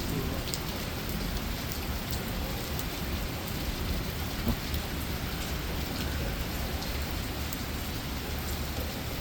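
Heavy rain pouring steadily onto hard surfaces, with scattered drop splashes and a low thunder rumble underneath.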